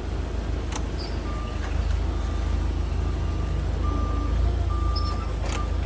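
Truck engine running with a steady low rumble while reversing, its backup alarm beeping several times from about a second in.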